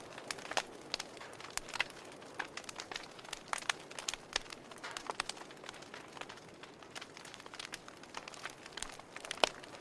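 Wood fire crackling in a fireplace: irregular sharp pops and snaps over a soft steady hiss, with one louder pop near the end.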